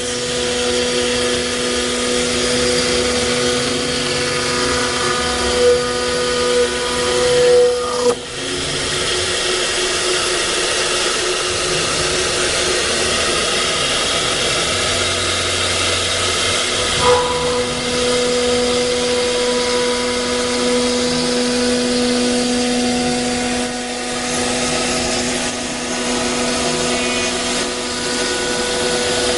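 A double-head CNC router's 6 kW HSD spindles running and cutting: a steady spindle whine over the hiss of the cut. The whine weakens about eight seconds in and comes back strongly about seventeen seconds in.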